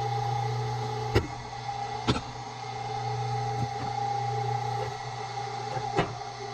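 A motor running with a steady hum, with three sharp knocks, about a second, two seconds and six seconds in.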